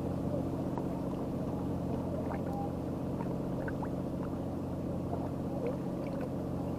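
A boat engine running steadily at idle, an even low hum that does not change, with a few faint short chirps above it.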